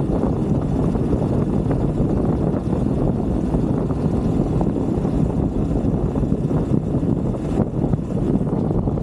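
125cc motorbike being ridden off-road, its engine and the ride making a steady, dense noise on the camera microphone.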